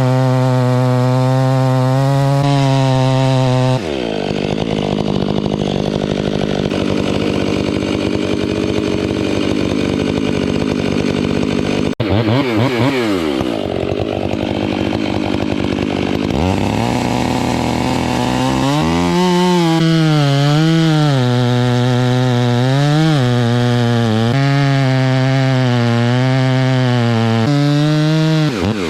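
Large chainsaw running at high speed, its pitch dropping away about four seconds in. After an abrupt break in the sound it speeds up again and runs with its pitch repeatedly rising and dipping.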